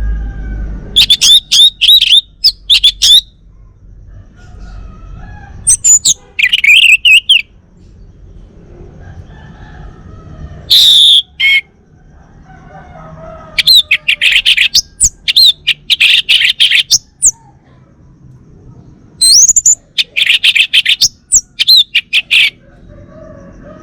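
Male orange-headed thrush singing: bursts of rapid, varied high whistled phrases a few seconds apart, about five bouts in all.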